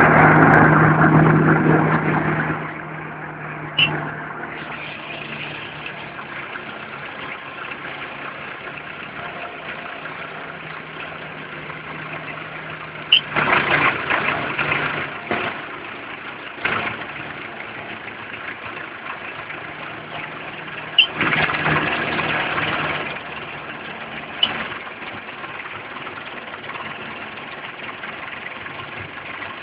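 Belarus tractor's diesel engine running steadily, louder for the first couple of seconds and again in two stretches partway through, with a few short sharp clicks.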